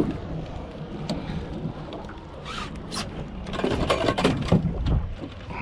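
Steady wind and water noise on a small fishing boat, with a flurry of sharp knocks and splashy thrashing for a couple of seconds in the second half.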